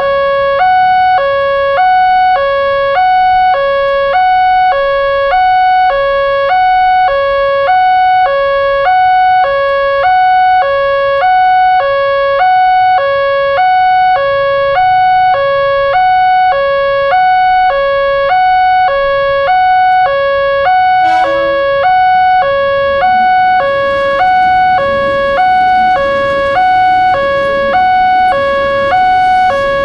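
Electronic railroad level-crossing warning alarm sounding its two alternating tones, switching about twice a second, warning of an approaching train. A rushing noise builds underneath from about two-thirds of the way in.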